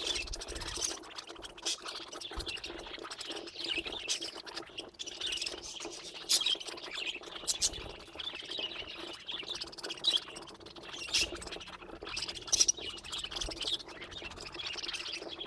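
Budgerigars chattering and warbling continuously, with scattered sharp clicks and chirps throughout.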